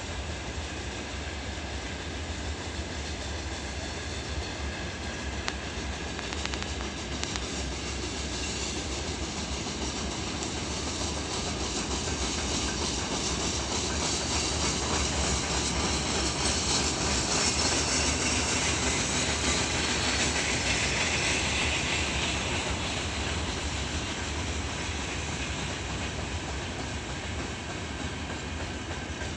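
Open wagons of a 100-car freight train rolling past at speed: a steady rumble with the clickety-clack of wheels over the rails. The sound swells and gets hissier toward the middle, loudest around two-thirds of the way in, then eases back.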